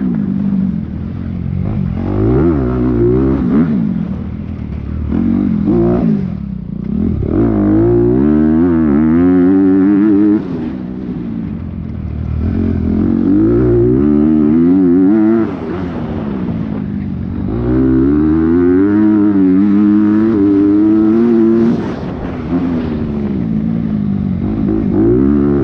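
Dirt bike engine heard from on board while racing, revving hard with its pitch climbing and falling through the gears. The throttle is shut off sharply three times, about ten, fifteen and twenty-two seconds in, then opened again.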